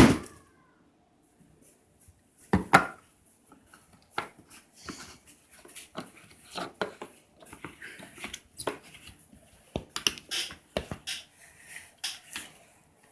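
A loud sharp snap at the very start, then scattered light clicks, taps and rustles of small objects being handled.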